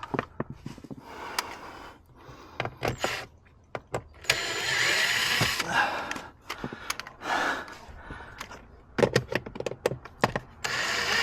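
Cordless drill/driver backing out interior trim screws in a few short bursts, between clicks and knocks of parts and tools being handled.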